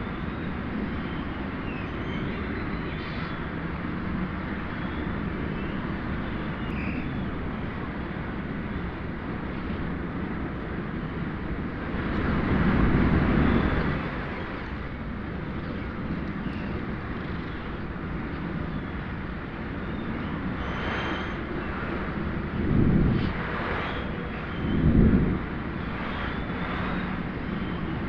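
Steady outdoor rumble with faint twittering of purple martins over it. A louder swell lasting about two seconds comes about twelve seconds in, and two short low thumps come near the end.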